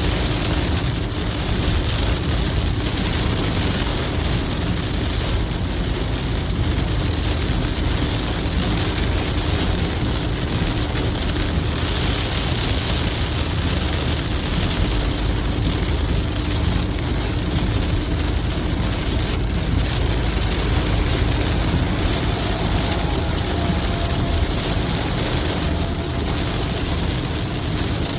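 Car driving at highway speed in heavy rain: a steady rush of rain and wet-tyre spray over a low road rumble.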